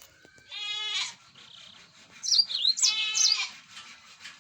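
Two goat bleats of about half a second each, about a second in and about three seconds in, with a few quick high bird chirps just before the second bleat.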